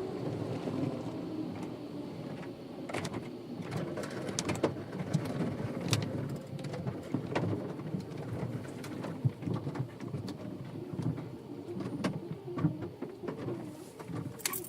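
Water pattering and dripping on a car in an automatic car wash: a steady rush of noise with scattered sharp taps.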